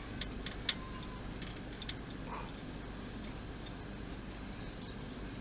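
A few light clicks and taps from small plastic model parts being handled and pressed into place, over a steady low hum, with faint short high chirps in the second half.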